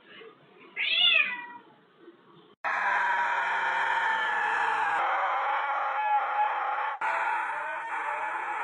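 A cat gives one loud meow about a second in, the pitch rising then falling. Then, about two and a half seconds in, a steady dense noise starts suddenly and carries on.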